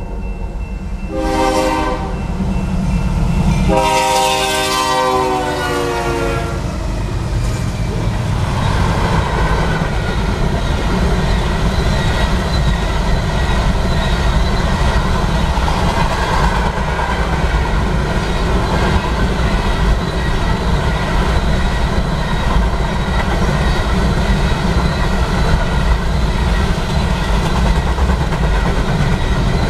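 A BNSF freight train's locomotive horn sounds a short blast, then a longer one whose pitch drops as the locomotives pass. After that comes the steady rumble and clickety-clack of covered hopper cars rolling by at speed.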